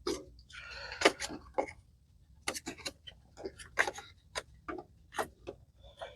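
Irregular light clicks and knocks of small parts being handled, two or three a second, with a short rustle about half a second in.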